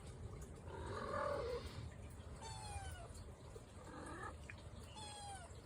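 Cats meowing: a longer call about a second in, then two short, thin cries that fall in pitch, about two and a half seconds apart.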